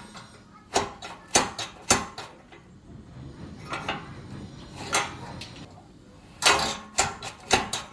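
Metal clanks and clicks from a welded steel door latch being worked, with about nine sharp knocks at uneven intervals, some ringing briefly.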